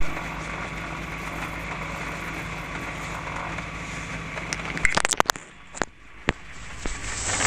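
Steady hiss and low hum on the cockpit radio and intercom audio feed. About five seconds in there is a quick cluster of sharp clicks and crackles, after which the feed briefly goes quieter.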